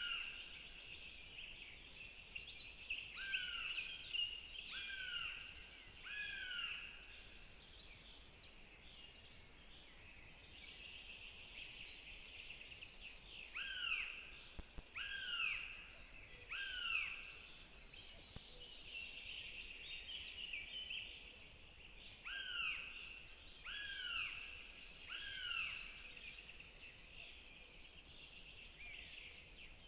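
Northern goshawk chicks calling: thin, descending whistled notes repeated in runs of two to four, about one a second, with gaps between runs, typical of begging at feeding time. Other small birds sing throughout.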